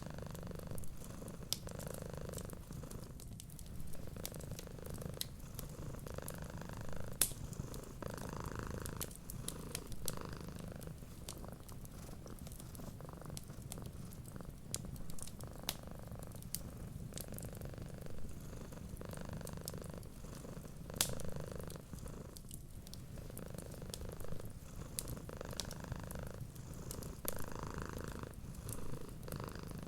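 Cat purring steadily, swelling and easing with each breath every couple of seconds, over scattered sharp crackles and pops of a wood fire.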